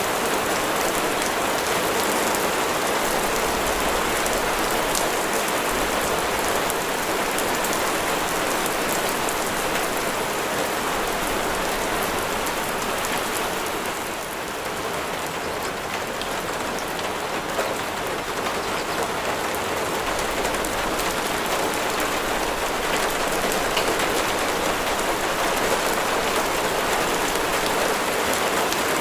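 Steady heavy rain falling on surfaces, a dense, even patter of drops, easing slightly about halfway through before building again.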